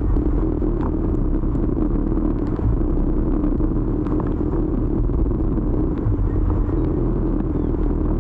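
Steady rumble of a motor scooter being ridden through city traffic: engine hum and road noise, with a few faint ticks.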